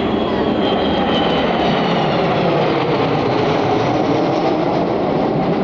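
Jet roar of Avro Vulcan XH558's four Rolls-Royce Bristol Olympus turbojets, flying in formation with two Folland Gnats, passing the crowd as a loud, steady rush of noise. A faint whistle falls slightly in pitch in the first second or so.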